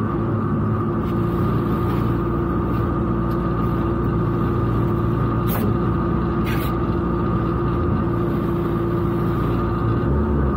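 Rally car's engine idling steadily with the car standing still, heard from inside the cabin, with two short clicks about halfway through.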